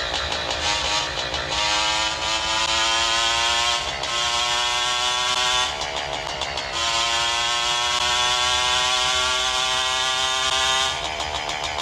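Motorcycle engine pulling under throttle, its pitch climbing steadily through each gear. It drops back with a rougher, pulsing sound at the gear changes: briefly about four seconds in, longer around six seconds, and again near the end.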